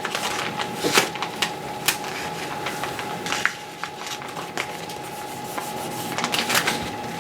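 Application film being peeled off a vinyl paint stencil laid on an aircraft wing: irregular rustling, crinkling and peeling noises.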